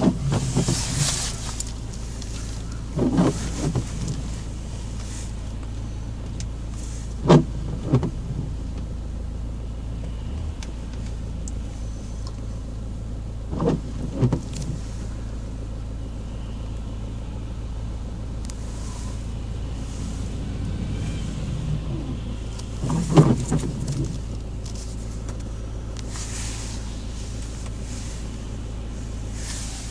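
BMW 520d's four-cylinder diesel running steadily with a low hum, no revving, broken by a few short knocks.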